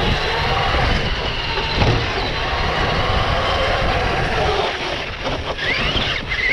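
RC car's motor whining as it drives, rising and falling in pitch as it speeds up and slows, over a steady rumble of tyre and ground noise. There are a few brief dips near the end, then the whine climbs again.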